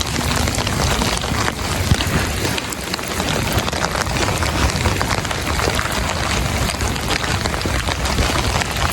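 Heavy rain falling: a dense, steady hiss of drops spattering on surfaces, with many small close drop hits scattered through it.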